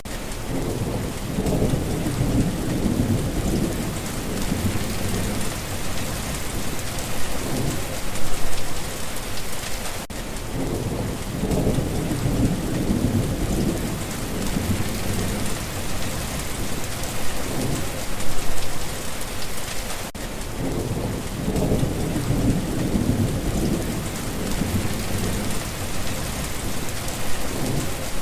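Steady rain hissing, with low rolling thunder rumbling three times, each rumble lasting several seconds. The pattern repeats about every ten seconds.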